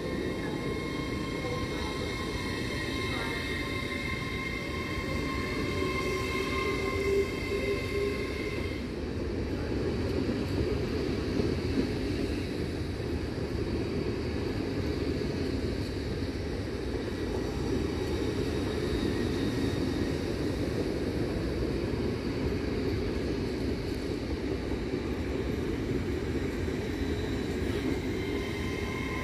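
LNER Azuma (Hitachi Class 800/801) trainset running along the platform: a continuous rumble of wheels on rail and running gear as the carriages pass, with a few steady high tones that stop about nine seconds in.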